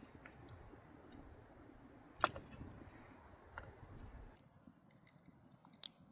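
Faint outdoor ambience broken by a few sharp clicks or snaps. The loudest comes about two seconds in, with softer ones later.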